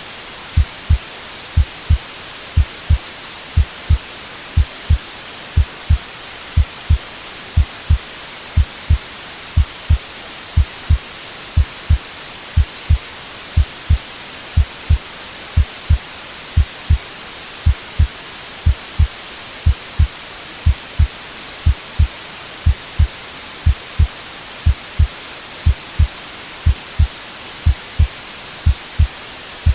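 Heartbeat sound, a steady lub-dub of paired low thumps about once a second, over a continuous hiss of white noise.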